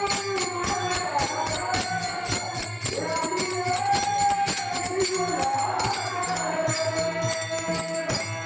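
A devotional bhajan sung by a group, with held, sliding melody lines over taal hand cymbals clashing in a fast, even beat and mridang drum strokes underneath.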